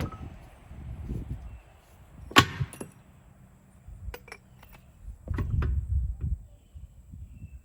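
Metal pieces clanking as they are handled and set down: one sharp ringing clank about two and a half seconds in, then a few lighter clinks, with low rumbling handling noise.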